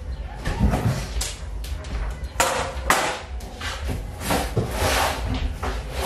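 A series of irregular sharp knocks and clatters, like things being handled and set down, over a steady low rumble.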